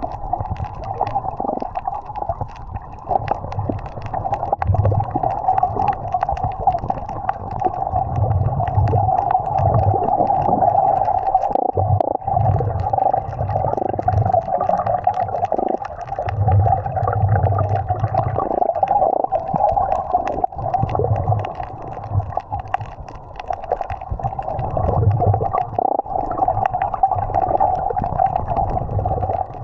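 Muffled underwater rumbling and gurgling from water moving around a submerged phone camera while snorkeling, with soft low pulses every second or two.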